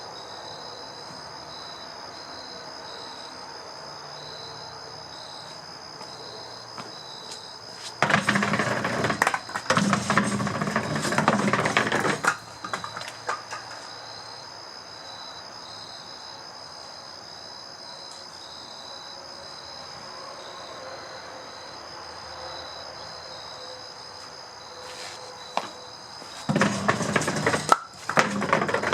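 Split firewood sliding and clattering down a culvert drain pipe used as a chute, in two loud rattling runs of a few seconds each, the first about a third of the way in and the second near the end. Crickets chirp steadily throughout.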